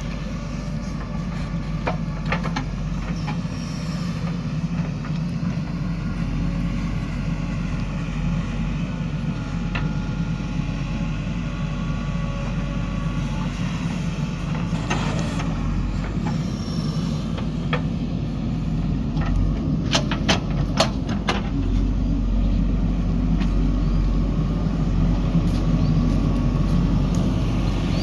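Diesel engine of a JCB 3DX backhoe loader running steadily while it works, growing somewhat louder about three quarters of the way through. A few sharp metallic clanks come through, with a cluster of them about twenty seconds in.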